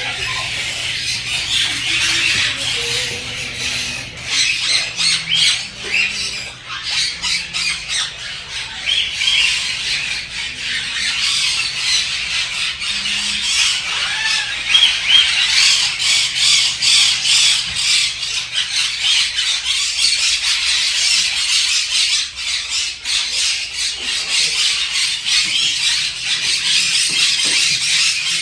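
A large flock of parakeets chattering and squawking all at once, a dense, unbroken mass of short, shrill calls.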